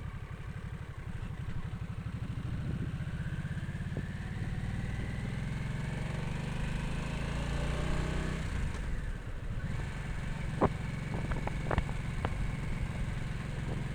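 Harley-Davidson Nightster's 975 cc V-twin engine pulling away and accelerating, its pitch rising over several seconds. It drops off about eight seconds in and then runs on steadily, with a few sharp clicks near the end.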